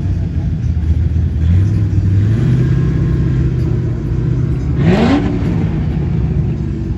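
Classic car engines running as cars cruise by, one revving about five seconds in with a quick rise in pitch.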